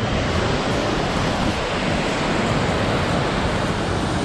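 Steady, dense rush of a large waterfall: falling water making an even noise that does not change.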